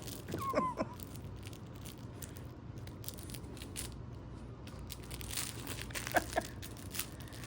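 A little toy pig being chewed and crinkled, with crackling, tearing noises throughout and two short squeaky pitched sounds, one about half a second in and one about six seconds in.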